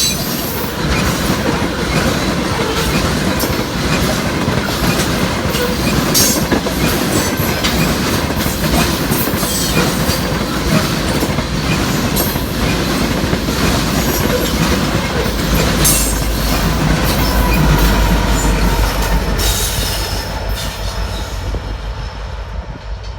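Freight train cars rolling past on the rails, with a steady rumble and repeated clicking of wheels over rail joints. The sound thins and fades over the last few seconds as the train draws away.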